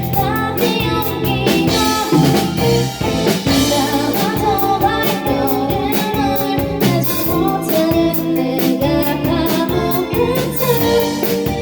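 Live indie pop band playing a song, with a drum kit keeping a steady beat under a sung melody.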